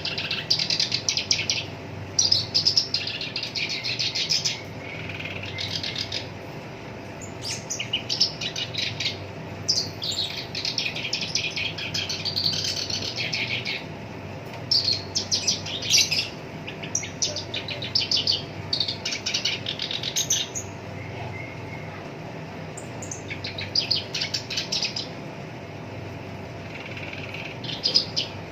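Black-browed reed warbler singing: spurts of rapid, rough chattering notes, each a second or two long, with short pauses between, over a faint steady hum.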